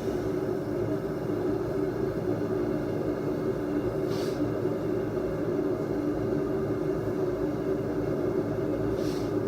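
A forge running with a steady, even rush and a low hum, heating a steel blade up to about 1500 degrees for quenching. Two faint short hisses come about four seconds in and near the end.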